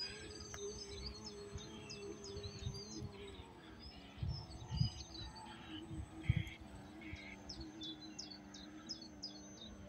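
A steady small electric-motor whine from a radio-controlled model boat, dropping slightly in pitch about three seconds in as it eases off, over small birds chirping repeatedly. A few low thumps come in the middle.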